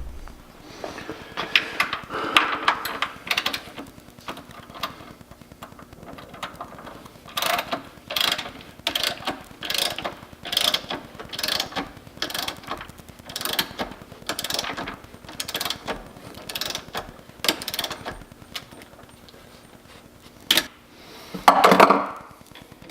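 Ratchet wrench clicking in repeated strokes as the vise's mounting bolts are tightened, about two strokes a second through the middle stretch. There is one louder noise near the end.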